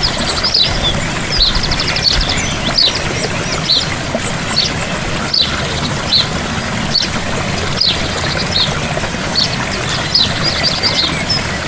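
Gentle waterfall splashing steadily, with birds chirping over it again and again: short high calls every half second or so, and a fast trill near the start and again near the end.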